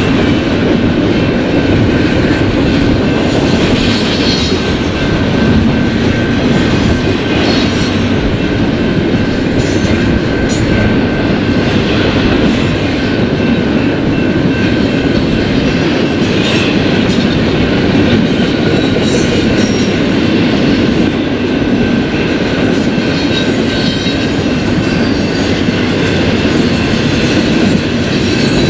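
Eastbound BNSF intermodal stack train rolling past, its cars making a steady wheel-on-rail noise with a thin, steady high tone above it.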